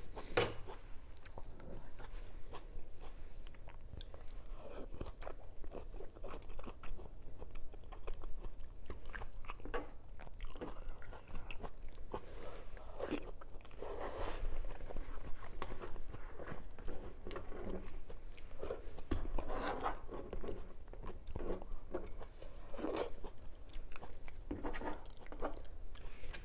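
Close-miked chewing and biting of food: a steady run of short clicks and smacks from the mouth, with louder bursts now and then.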